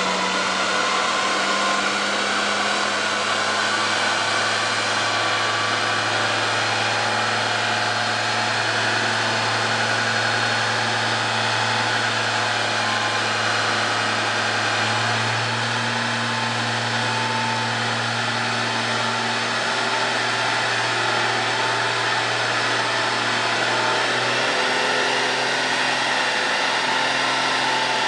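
Jaguar E-type 3.8-litre straight-six engine running at a steady moderate speed on a rolling-road dyno, under a loud steady rushing hiss. The engine note steps up slightly about halfway through and drops back a little near the end.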